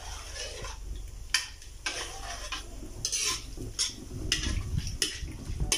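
Metal ladle stirring coconut milk in an aluminium wok, scraping and clinking against the pan about once a second, over a low steady rumble.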